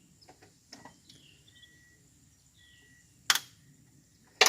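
A few light clicks, then two sharp knocks about a second apart near the end, with faint bird chirps behind.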